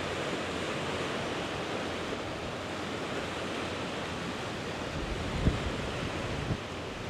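Steady outdoor noise hiss, with wind buffeting the microphone in a few low gusts from about five seconds in.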